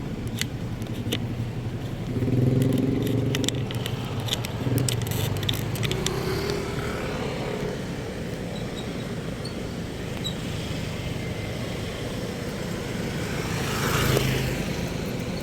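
Road traffic: vehicle engines running steadily, with clicks and rattles in the first few seconds and a vehicle passing close near the end.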